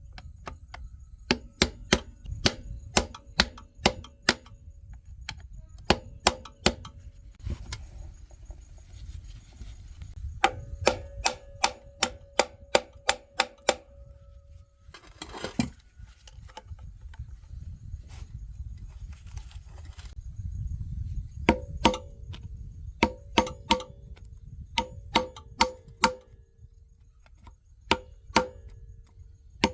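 Hammer blows on metal, struck in quick runs of several hits with pauses between, each blow leaving a short metallic ring.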